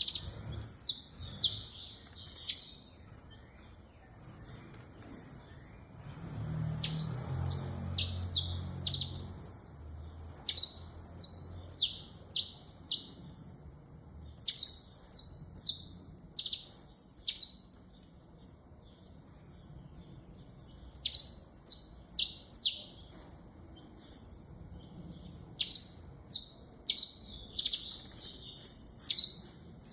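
Saffron finch singing: phrases of quick, high, sharp chirping notes, broken by a couple of short pauses.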